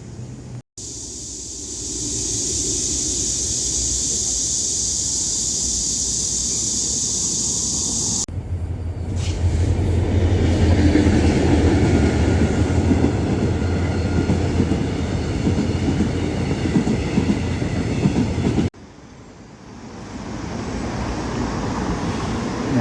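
A train passing: a loud, steady rumble with a low hum that runs for about ten seconds and then cuts off abruptly. Before it comes a steady high hiss.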